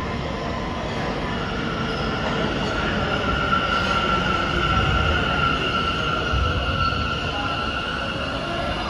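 New York City subway train running through an underground station, its low rumble overlaid by a steady high-pitched wheel squeal that sets in about a second in and fades near the end.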